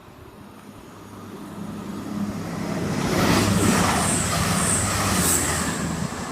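CrossCountry Class 220 Voyager diesel multiple unit passing straight through the station at speed. Its sound builds for about three seconds to a loud peak of wheel and engine noise with a low hum and a few short high-pitched hisses, then begins to fade near the end.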